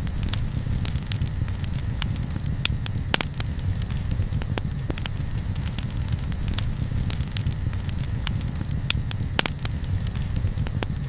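Campfire crackling: sharp, irregular pops and snaps over a steady low rumble. A faint high chirp repeats at an even pace, about twice a second.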